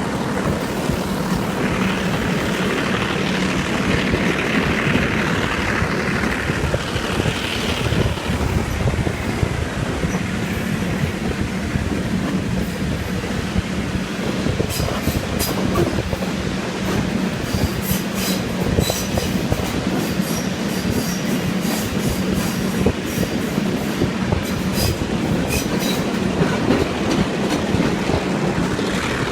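Train running on the line behind a Class M2c's EMD two-stroke diesel locomotive: a steady engine drone under wheel-on-rail noise, with a hissing squeal in the first third and sharp clicks through the second half.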